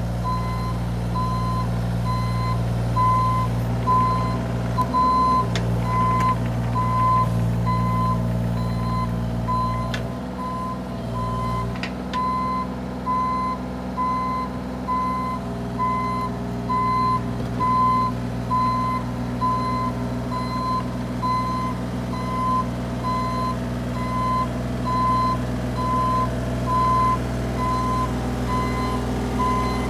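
Bobcat E32 mini excavator's diesel engine running while its travel alarm beeps steadily about once a second. The engine note changes about ten seconds in.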